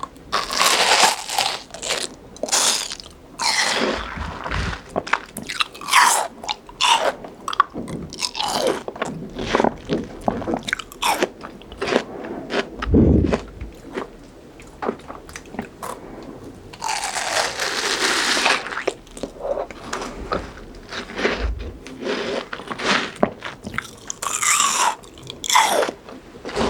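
Close-miked biting and chewing of crunchy fresh fruit: a steady run of short, crisp crunches, with a longer burst of crunching about 17 seconds in.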